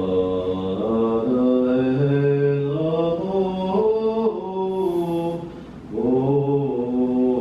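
Slow ritual chanting: long held notes that step up and down in pitch, with a short break about five and a half seconds in.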